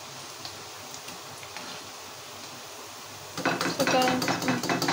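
Pakora fritters shallow-frying in oil in a frying pan, a steady sizzling hiss. About three and a half seconds in, metal tongs scrape and clatter against the pan, louder than the sizzle.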